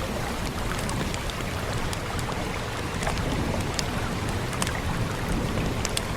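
Wood fire crackling with irregular sharp pops over a steady hiss of rain and a low rumble underneath.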